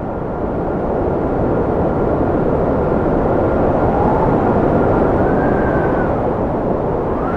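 Cold wind blowing in a steady rush, with a thin high whistle that swells and bends up and down twice, once in the middle and once near the end.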